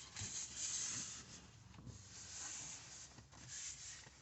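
Irregular rustling and rubbing sounds in several short bursts, with no speech.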